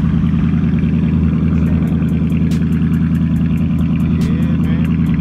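Chrysler 300's engine idling loud and steady after a morning cold start, the exhaust pulsing evenly. A fast, light ticking, about five a second, joins about a second and a half in.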